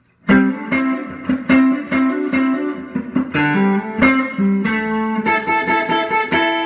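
1971 Epiphone ET270 electric guitar on its neck-position Kent Armstrong mini humbucker, played through a 5F4 amp with light digital reverb and compression: a run of picked single notes and double-stops starting a moment in, the last ones left ringing.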